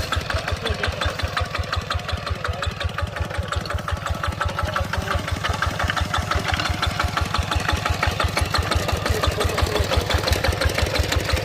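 Engine running steadily with a fast, even chugging beat, growing slightly louder in the second half.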